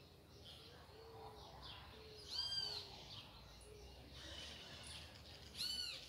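Birds calling: two clear arched calls about three seconds apart stand out over a run of soft, low-pitched hooting notes.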